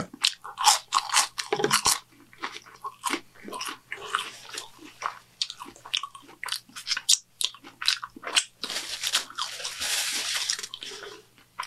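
Close-up eating sounds: chewing and crunching of churro fries dipped in chocolate sauce, with many short wet clicks and crackles. Near the end there is a steady rustling hiss lasting about two seconds.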